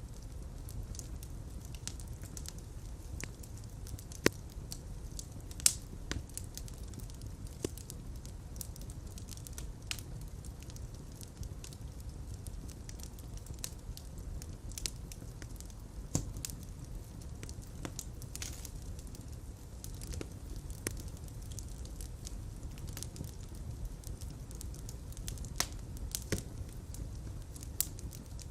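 Fire in a fireplace crackling steadily over a low rumble of flames, with scattered sharp pops; the two loudest come about four and six seconds in.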